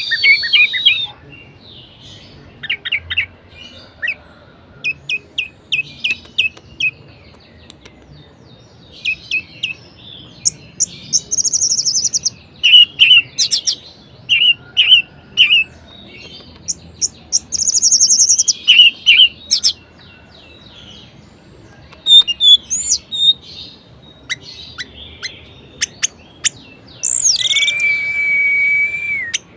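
Orange-headed thrush singing a loud, varied song of short chirping and whistled phrases broken by brief pauses, with fast buzzy trills and, near the end, one long steady whistle.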